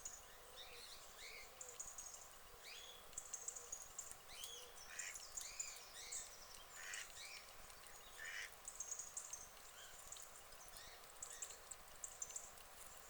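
Ducks quacking faintly in scattered short calls, through a steady high thin chirping.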